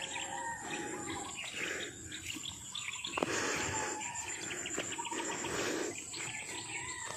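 Insects trilling in a steady high drone, with birds chirping over it.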